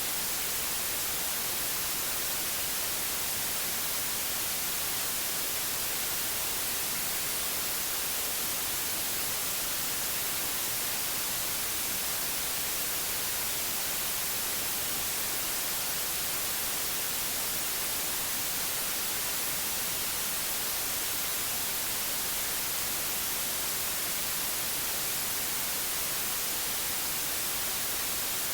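Steady white noise: an even, bright hiss that never changes.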